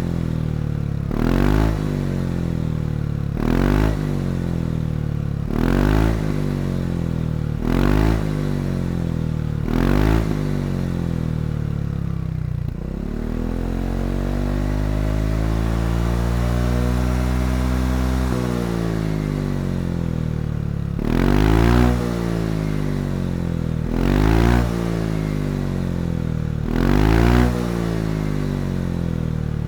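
Honda ADV350 scooter's single-cylinder engine through a Yoshimura GP-Magnum115 full-system exhaust, idling and blipped in five short revs about two seconds apart. Midway the revs rise slowly for about five seconds and drop back to idle, then three more quick blips follow.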